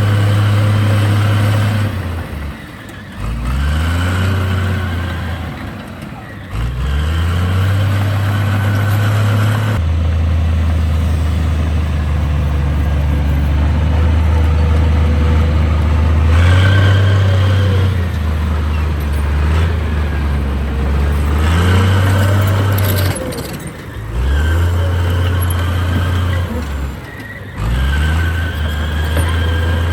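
Heavy-equipment diesel engine working steadily. Its pitch drops and then climbs back several times, around 2–3, 6, 24 and 27 seconds in, as the load and throttle change.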